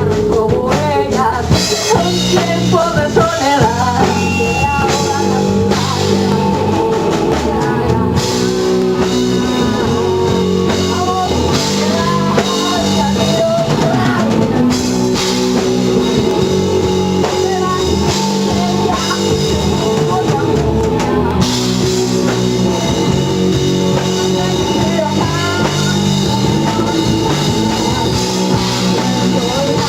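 Live rock band playing: drum kit, electric guitar and bass, with some singing.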